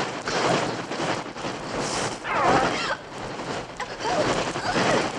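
Birds calling a few times, short curving calls, over a loud rushing noise that surges and fades.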